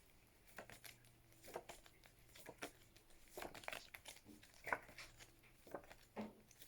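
Faint, scattered rustles and soft clicks of word flashcards being shuffled and handled, over a faint low hum of room tone.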